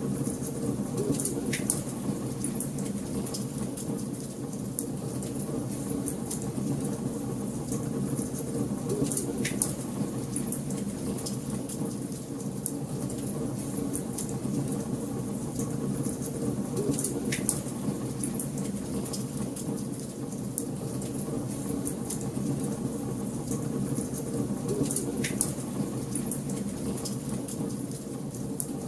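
Wood fire burning in a fireplace: a steady low hiss and rustle of flames with constant fine crackling, and a sharper pop about every eight seconds.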